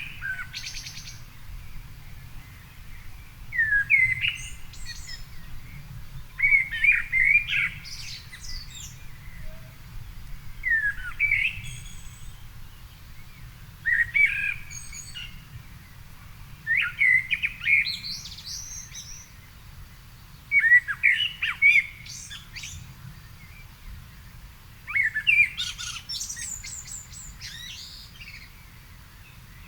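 A songbird singing short, varied phrases, about eight of them, one every three to four seconds, each a second or so long, some ending in higher twittering notes.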